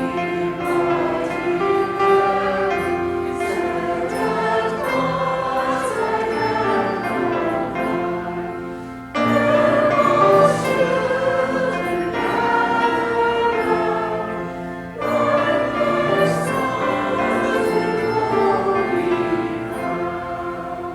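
Church choir singing, several voice parts together in sustained phrases. It comes in strongly again about 9 seconds and 15 seconds in, and dies away at the end.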